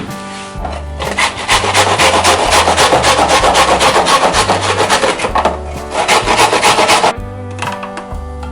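Onion being grated on a grater, rapid rasping strokes for about six seconds, starting about a second in and stopping suddenly near seven seconds, over background music.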